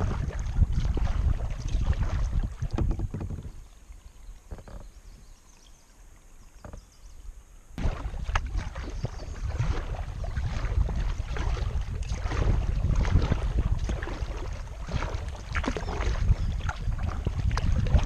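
Wind rumbling on the microphone of a camera on a paddled kayak, with small splashes of water and paddle. It dies down for a few seconds and comes back abruptly about eight seconds in.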